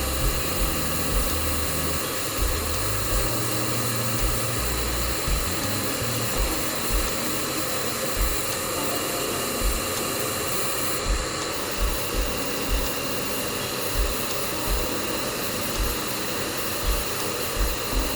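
Steady hiss and hum of air blowing from a painting tool, under background music with low thumps at an uneven spacing.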